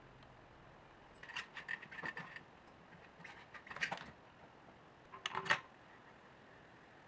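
Light metallic clinks and rattles in three short bursts, the last one the loudest.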